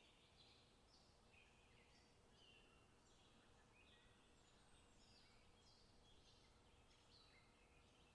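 Faint chirping of small songbirds, many short high calls a few times a second, overlapping, over a soft background hiss.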